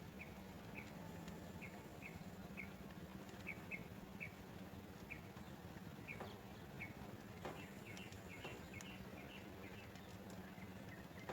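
Small bird chirping: short, high, evenly repeated chirps about two or three a second, coming faster near the end, over a faint low hum.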